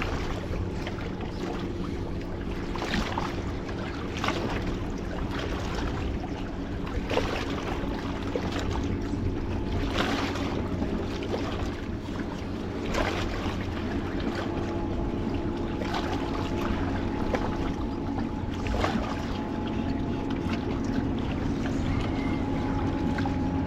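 Electric motor and gear drive of a radio-controlled rock-crawling buggy whining steadily as it climbs, with scattered sharp knocks and clacks from the chassis and tyres hitting rock.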